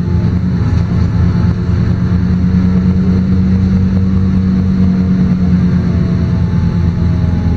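LiAZ-5292.22 city bus's diesel engine running steadily during a ride, a loud even low hum with no change in pitch.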